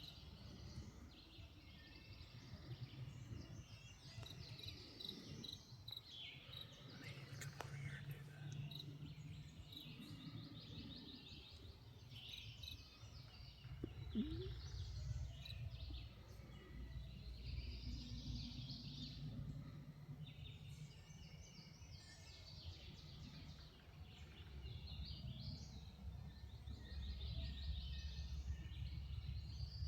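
Several songbirds singing and chirping, many short repeated phrases and trills, over a low steady rumble.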